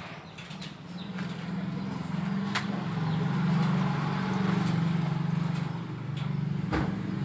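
A low, steady machine hum that builds over the first two seconds or so and then holds, with a few sharp clicks on top.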